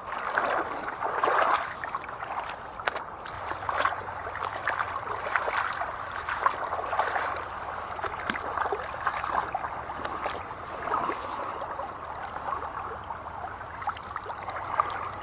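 Shallow creek water sloshing and gurgling in uneven surges.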